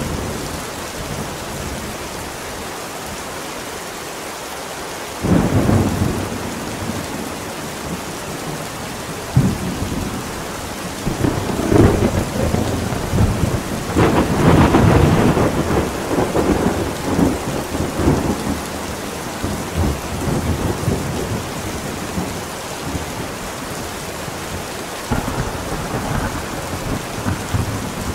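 Steady heavy rain with repeated rolls of thunder: sudden low rumbles break in several times, the loudest and longest about halfway through.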